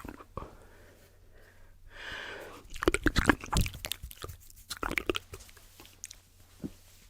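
Close-miked ASMR mouth sounds layered with tapping: scattered wet clicks, a soft breathy hiss about two seconds in, then a dense run of quick clicks and taps.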